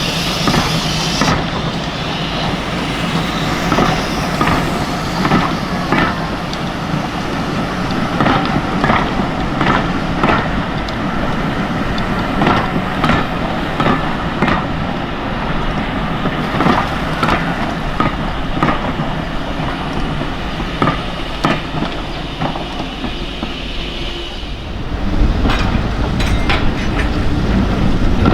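A steam-hauled train passing, its carriage wheels clicking over the rail joints, often in pairs, over a steady rumble. About 25 seconds in a heavier low rumble comes in.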